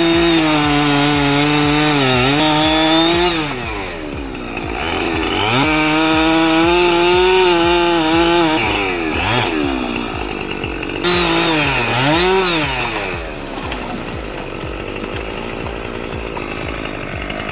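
Two-stroke chainsaw held at full throttle, cutting, then easing off and revving back up several times, settling to a lower speed for the last few seconds.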